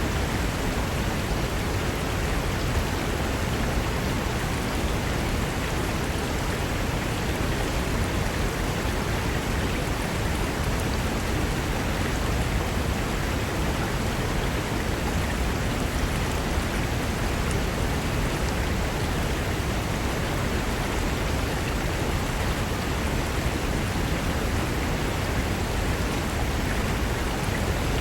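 Fast mountain river rushing over rocks: a steady, full rush of water with a strong low rumble.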